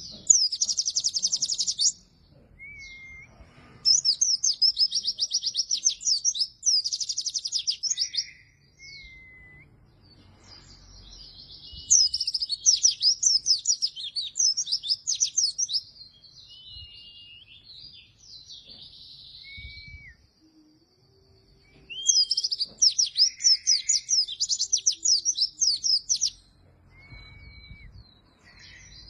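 White-eye (pleci) singing vigorously. Loud bursts of very fast, high trilled chatter a few seconds long repeat about five times, with short, softer whistled notes between them.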